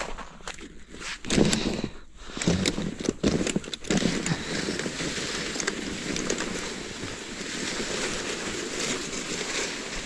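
A sled crunching and scraping in deep snow as it gets going, then sliding downhill with a steady hiss from about four seconds in that stops just before the end.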